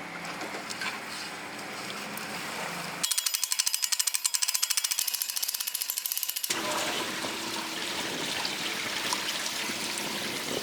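Rain hissing on water, broken for about three and a half seconds in the middle by rapid, even ratchet-like clicking, about nine clicks a second, that starts and stops abruptly.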